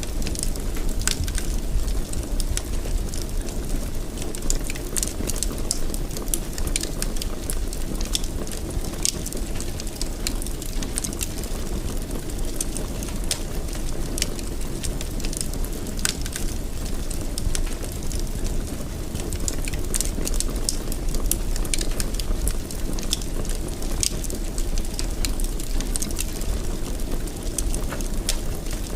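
Fireplace fire crackling steadily over a low rumble, with frequent irregular sharp snaps and pops.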